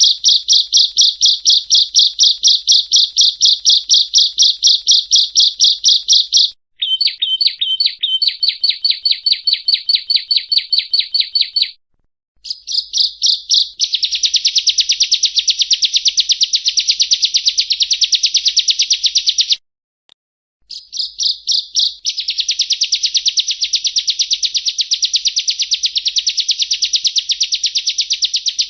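Yellow-bellied prinia (prenjak rowo) singing: fast runs of rapidly repeated high, buzzy notes, in several phrases broken by short gaps, the later phrases denser and fuller.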